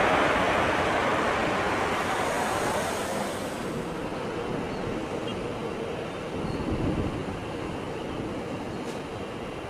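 Airbus A320 jet airliner landing, its engine noise a loud rush that fades away over the first few seconds, leaving a steady low outdoor rumble with wind on the microphone.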